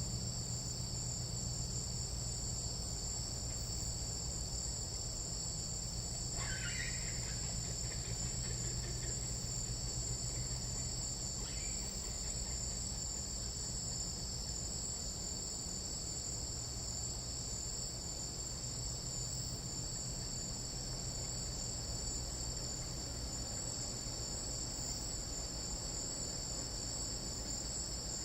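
Tropical night-insect chorus: a steady, unbroken high-pitched trilling. About six and a half seconds in, a short call from an unidentified animal sounds over it, and a fainter one follows a few seconds later.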